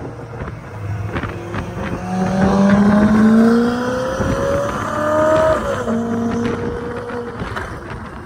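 Ferrari mid-engine V8 supercar accelerating. The engine note climbs for about three seconds, drops sharply at a gearshift, then runs on at a steadier pitch over road noise.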